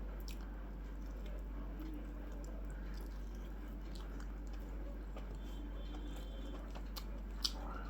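A person chewing a mouthful of chicken curry, with small wet mouth clicks and a sharper click near the end, over a steady low hum.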